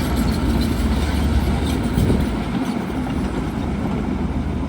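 Bulldozer engine running steadily under load, with a light metallic clatter over it and a brief louder surge about two seconds in.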